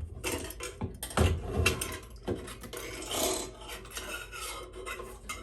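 Metal parts clinking, knocking and scraping as the fuel pump assembly is worked loose and lifted out, with a longer rubbing scrape about three seconds in.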